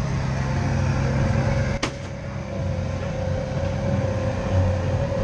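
Passenger train in motion in the dark: a steady low rumble, with one sharp click about two seconds in and a faint steady tone after it.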